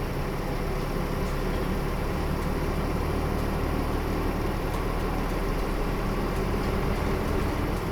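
Nissan Diesel KL-UA452KAN city bus heard from inside the cabin, its diesel engine running steadily with a low hum.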